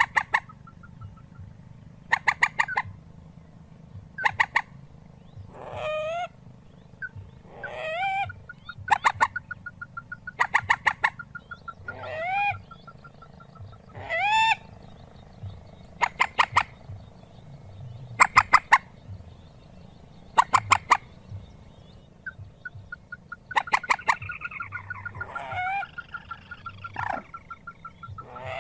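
Mandar (rail) calling: bursts of rapid, sharp repeated notes about every two seconds, alternating with louder harsh calls that rise in pitch. A faint fast ticking runs in the gaps.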